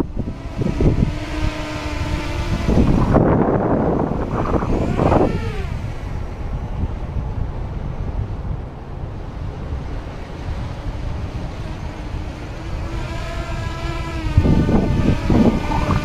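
250mm quadcopter's motors and propellers whining, the pitch rising and falling as the throttle changes, fainter through the middle and louder again near the end. Wind rumbles on the microphone underneath.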